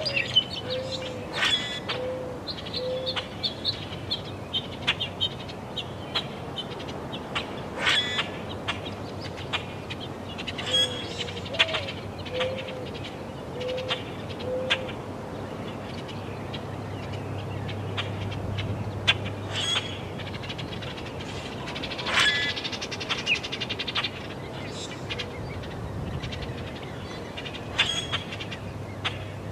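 A bird's low hooting call, a run of four or five short even notes, heard twice, once at the start and again about eleven seconds in, over a steady low wind rumble. Scattered sharp clicks and scuffs come through now and then.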